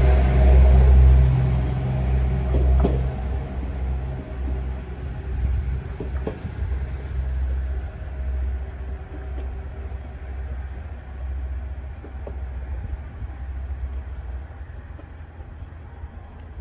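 KiHa 110 series diesel railcar with its engine rumbling low and steady, fading gradually as the train draws away, with a few faint clicks from the wheels and track.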